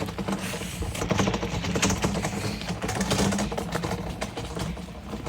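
Dense, irregular patter of heavy rain, with a steady low hum underneath.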